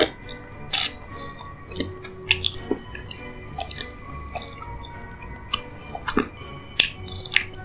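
Close-up eating sounds: chewing with several sharp, wet mouth smacks and clicks, the loudest about a second in and twice near the end. Quiet background music plays underneath.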